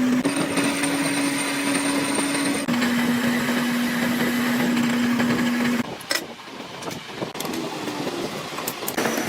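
Workshop machinery running with a steady motor hum, its pitch stepping to a new level every few seconds. After about six seconds it gives way to quieter noise with a few sharp clicks.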